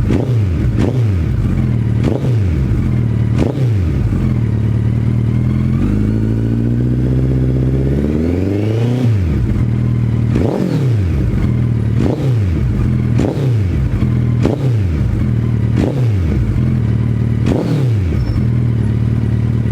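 Suzuki Hayabusa's inline-four engine idling and being blipped on the throttle, about a dozen quick revs that each rise and drop back to idle. Around the middle there is one longer, slower rev.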